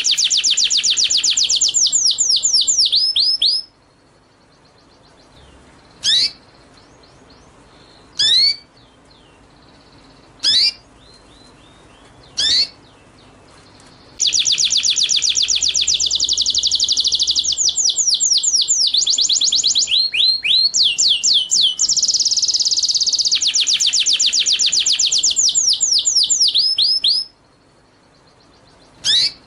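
A small songbird singing: long bursts of a very rapid, high trill, broken by single sharp upward-sliding notes about two seconds apart.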